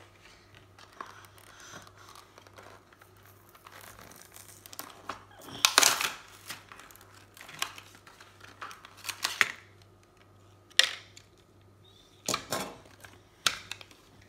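Toy packaging being crinkled and torn open by hand, in irregular rustles and short rips, the loudest about halfway through.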